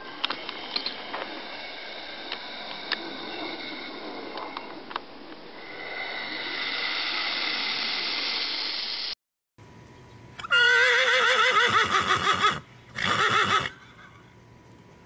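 A horse whinnying: one long, quavering neigh about ten seconds in, followed by a shorter noisy burst. Before it there are several seconds of steady background noise with scattered clicks.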